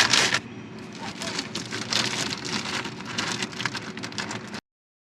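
Dense rustling and crackling of plastic bags and packaging with light knocks, as packaged food is stacked into a small roadside food pantry box; it stops abruptly about four and a half seconds in.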